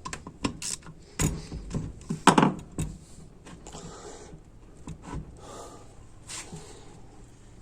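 Sharp metallic clicks and knocks of small transmission valve-body parts being handled and fitted, a quick cluster in the first three seconds, then a few fainter ones later.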